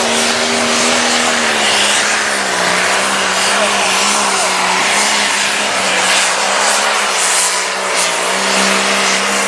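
Turbocharged diesel limited pro stock pulling tractor running at high revs under load, its engine pitch wavering slightly up and down.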